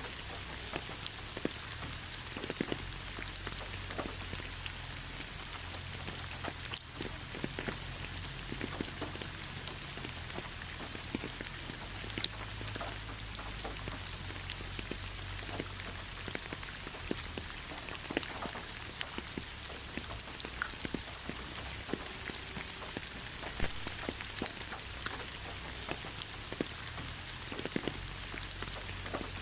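Steady rainfall with many distinct drops pattering on a surface, over a low background rumble.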